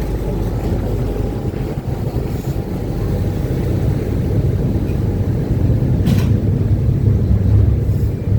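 Uber Boat river-bus engines running with a steady low rumble that grows louder partway through, with a single sharp knock about six seconds in.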